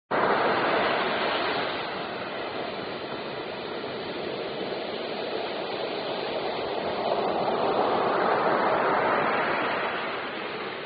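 A rushing noise that starts suddenly, settles, then swells about seven to nine seconds in and eases off again.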